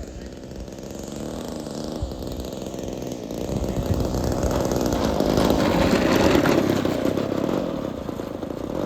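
Small 20cc two-stroke gasoline engine of a Seagull Ultimate RC model plane running. It swells louder to a peak about six seconds in, then eases off.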